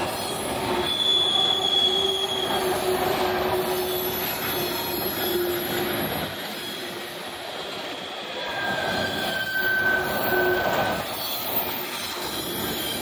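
Empty coal hopper cars of a long freight train rolling past, wheels rumbling and rattling on the rails. Steady high-pitched wheel squeals ring out twice, a shrill one about a second in and a lower one about nine seconds in.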